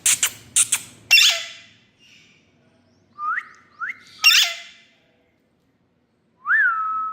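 Indian ringneck parakeet calling: sharp clicks and two harsh squawks, two short rising whistles, then a longer whistle near the end that rises and settles on a steady note.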